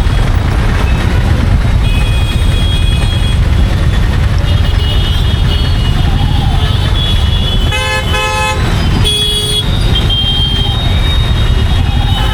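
Royal Enfield Meteor 350's single-cylinder engine running steadily while riding in traffic, with road and wind noise. Vehicle horns honk twice, briefly, about two thirds of the way through.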